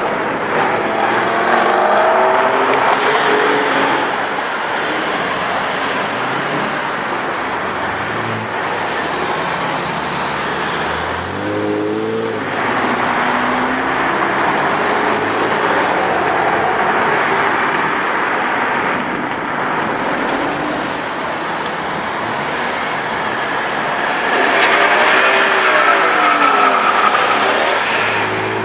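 Tuned cars and supercars running and revving, engine pitch rising and falling over steady traffic noise as cars pull away and pass. A louder rev comes near the end.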